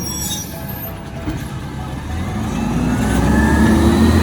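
Recycling truck's engine running, then revving up about halfway through, its pitch and loudness rising.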